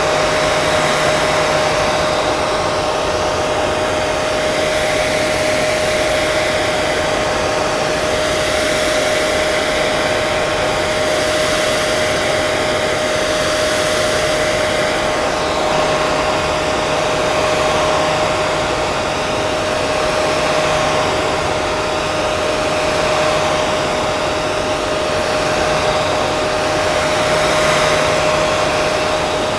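Hair dryer running steadily, a continuous whooshing blow with a constant whine through it.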